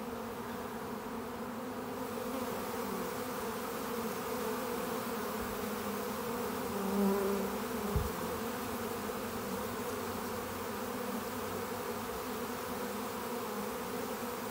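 Honey bee swarm buzzing as a steady, many-voiced hum while the bees land and settle on a box. One bee passes louder close by about seven seconds in, and a short soft knock comes about a second later.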